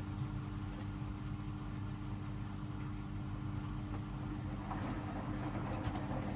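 Hoover DXOA610AHFN-80 washing machine running mid-cycle: a steady motor hum with a constant tone, getting a little busier from about five seconds in.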